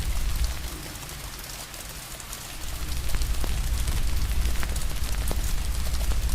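Steady rain hissing with a fire crackling: scattered sharp pops over the constant hiss and a low rumble. The rumble eases for about two seconds shortly after the start, then comes back.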